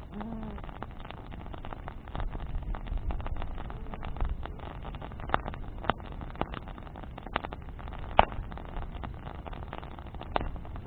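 Bonfire of branches burning, with sharp crackles and pops of burning wood scattered through, the loudest about eight seconds in, over a low rumble that swells for a couple of seconds about two seconds in.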